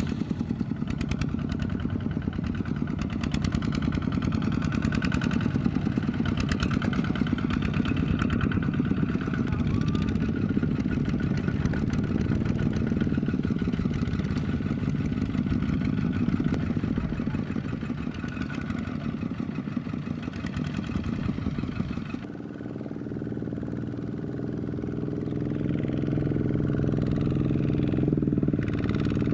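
Power tiller engine running steadily. About three quarters of the way through it dips briefly, then its note steadies and builds back up.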